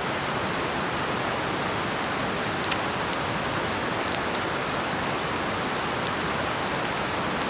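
Steady rushing of a nearby river, with a few faint ticks scattered through it.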